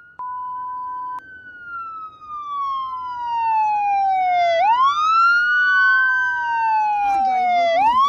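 A steady one-second beep, then an emergency siren wailing: each cycle falls slowly in pitch for about three seconds and sweeps quickly back up, twice. Near the end a wavering voice-like sound starts over the siren.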